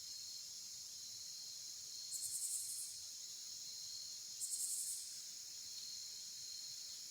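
Insects, crickets among them, trilling steadily in a high chorus, with a faster buzzy call breaking in twice, each lasting under a second, about two and a half seconds apart.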